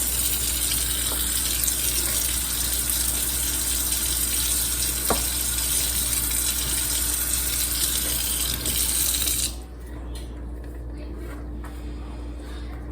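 Water running steadily from a tap to fill a bath, shut off suddenly near the end.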